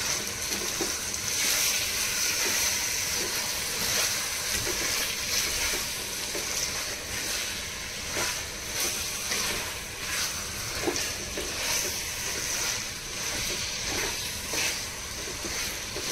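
Marinated chicken frying in a pan with onions, a steady sizzle, with a spoon stirring and scraping against the pan now and then.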